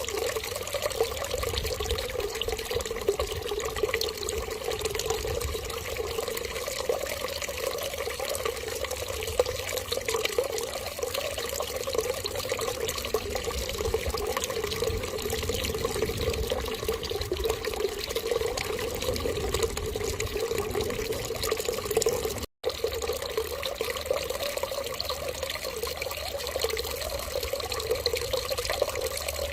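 Steady stream of running water, flowing evenly, which cuts out for an instant about two-thirds of the way through.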